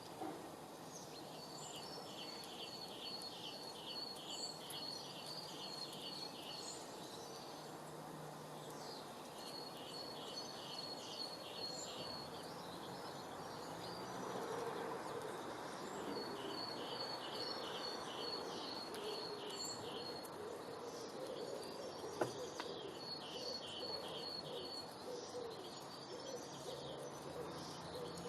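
A bird singing the same phrase over and over: a run of evenly spaced, high, short notes, about two to three a second, lasting a few seconds and repeated every six or seven seconds over a steady background hiss. A single sharp click comes near the end.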